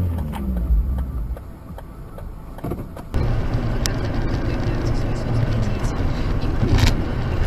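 Car engine and road noise as heard from a dashcam. It is a low rumble as the engine note falls, then cuts suddenly about three seconds in to a louder, steady drive drone.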